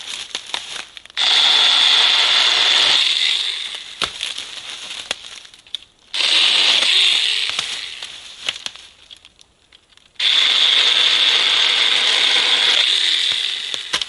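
Small battery-powered mini chainsaw cutting branches: three cuts of about two to three seconds each, each starting sharply and trailing off, with the crackle of wood between them.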